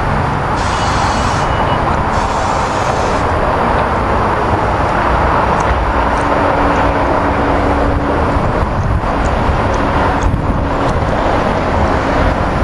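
SEPTA Silverliner IV electric commuter train passing, a steady loud rush of wheels on rail, with a low hum heard twice in the second half.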